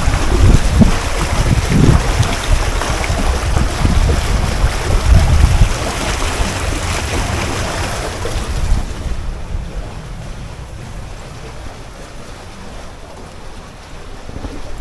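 Gusty wind buffeting the microphone, with loud rumbling blasts for the first six seconds or so, then easing to a quieter steady rush.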